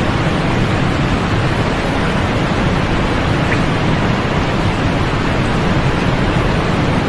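Steady, unbroken sleep noise of the 'white noise' kind, with most of its weight in the low and middle range and little above about 4 kHz, so it sounds more like a soft hiss-rush than a bright hiss.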